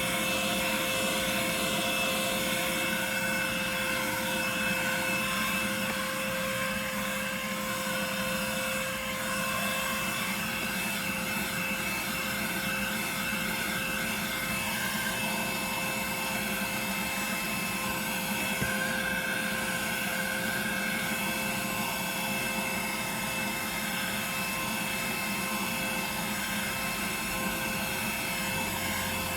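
Vacuum cleaner running steadily, its motor giving a constant whine.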